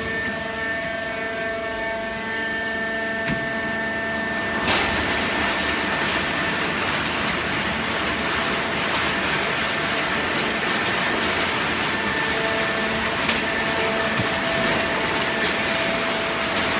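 Hydraulic baling press machine running: a steady hum with several held tones, joined about four and a half seconds in by a louder, even rushing noise that continues steadily.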